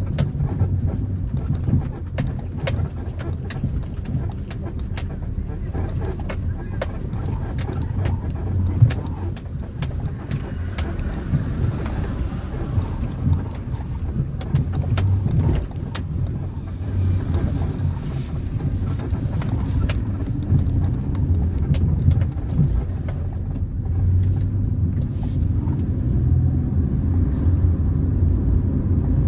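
A car driving along a road: a steady low rumble of engine and tyres, with frequent small knocks and rattles and one sharper knock about nine seconds in.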